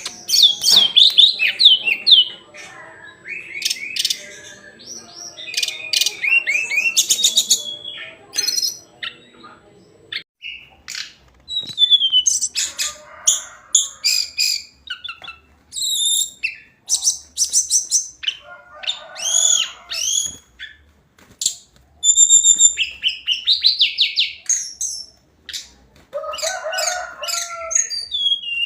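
Hill blue flycatcher singing: short, varied phrases of clear whistles and quick trills, repeated with pauses between them. A steady low hum runs beneath the song for the first ten seconds and then stops abruptly.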